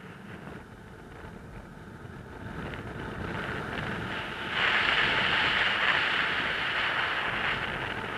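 Wind blowing across the microphone, a rushing hiss that builds, turns suddenly much louder about halfway through, and eases off near the end.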